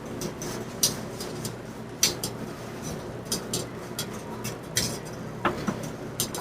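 Hampton Bay Cameron II ceiling fan running with a steady low motor hum, under irregular light clicks and clinks.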